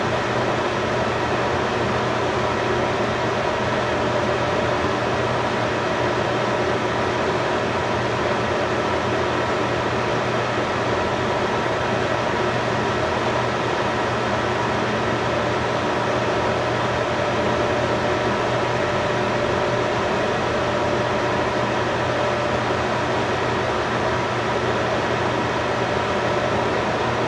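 Steady mechanical hum with hiss: a few fixed tones over an even noise, unchanging throughout.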